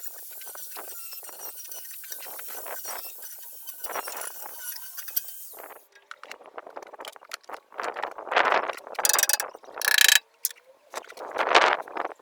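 Hand tools and metal parts clicking and clattering in a workshop: a fast run of small ratchet-like clicks over a steady hiss at first, then louder separate knocks and clatters from about six seconds in, with a short burst of harsh noise near ten seconds.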